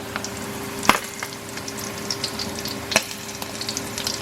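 Yogurt-and-mint-marinated chicken pieces frying in oil in a pan, sizzling steadily with small crackles and spits over a steady low hum. Two sharp knocks, the loudest sounds, come about a second in and near the end.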